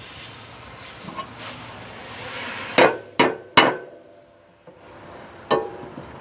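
Hammer blows on metal: three sharp strikes in quick succession a little past halfway, then one more near the end, each with a short metallic ring. This is knocking back a part whose bolts have been cut out.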